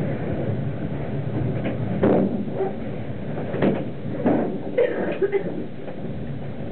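Train running through a tunnel: a steady rumble, broken by several sharp clunks, one about two seconds in and a cluster between three and a half and five and a half seconds.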